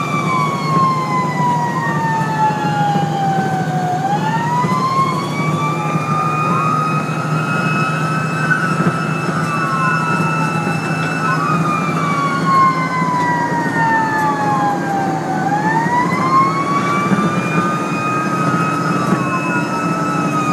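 Fire engine siren wailing in long, slow falls and rises, with a fainter second siren sweeping across it, over the steady drone of the truck's engine.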